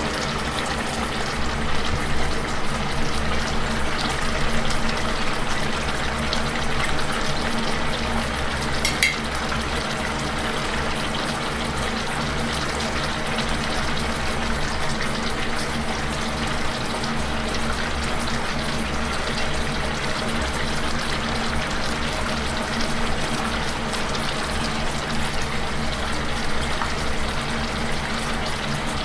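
Thin sauce simmering in a nonstick frying pan, a steady bubbling hiss, while a wooden spoon stirs it, with a short tap about nine seconds in.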